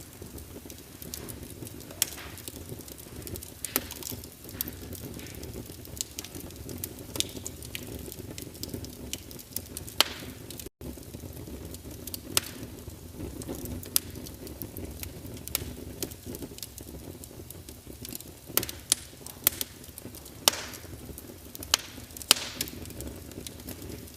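Wood fire burning in a fireplace: a steady low rush of the flames, with irregular sharp crackles and pops from the burning logs that come thicker a few seconds before the end. The sound cuts out for a split second about eleven seconds in.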